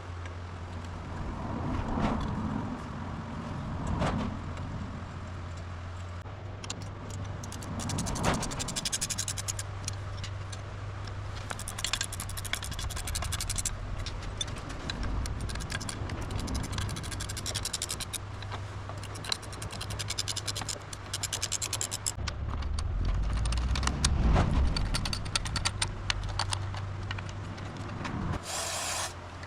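Metal parts and hand tools being handled and worked: scraping, scratching and clinking with several separate knocks, over a steady low hum. The clicking and scraping grow denser in the second half, with a louder low rumble partway through.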